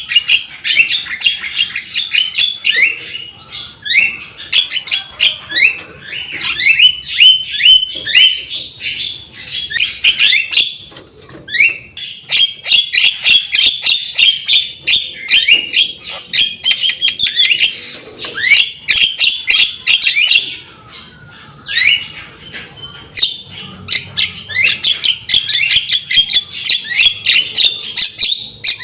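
Javan myna singing in long runs of rapid chattering, squawking and whistled notes, broken by a few short pauses.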